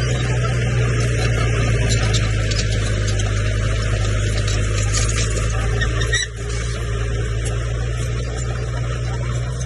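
Heavy diesel engine of a Komatsu crawler bulldozer running steadily under load, with scattered metallic clicks and clanks from the machine. The engine sound briefly dips about six seconds in.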